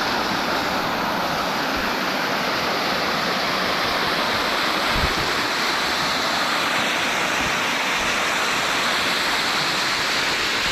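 Waterfall: a steady, loud rush of falling water, with a brief low thump about halfway through.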